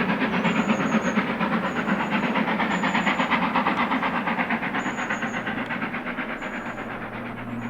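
LMS express steam locomotive working hard up the 1 in 75 climb to Shap, its exhaust beating fast and evenly with steam hiss and slowly fading away. A low steady hum comes in near the end.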